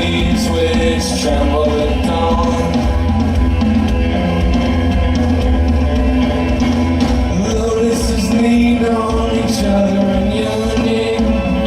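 A rock band playing live, with a singing voice over electric guitar, bass and drums.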